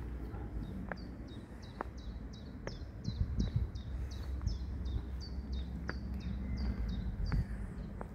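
A small songbird singing a long run of short, evenly repeated high notes, about three a second, over a steady low outdoor rumble.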